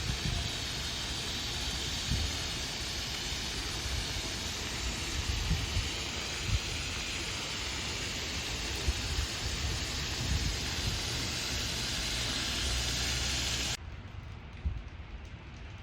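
Steady hiss of rain falling, with occasional low thumps and rumble underneath. Near the end it cuts suddenly to a quieter, duller hiss.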